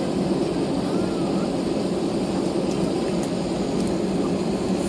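Steady engine and airflow noise inside an Airbus A320's cabin, with its CFM56 turbofans turning at low power as the airliner rolls along the ground after landing. A few faint ticks sit on top of it.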